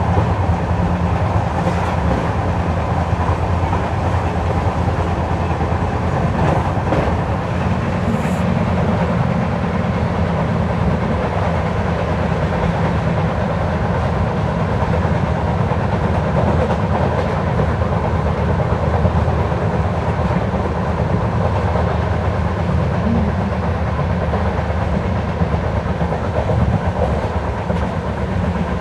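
LHB passenger coach rolling along the track at speed, heard from inside at a window seat: a steady rumble of wheels on rail with a few faint clicks.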